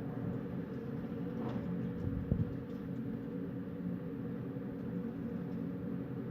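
Night wind rumbling on the microphone, with a short gust a little over two seconds in, over a faint steady hum.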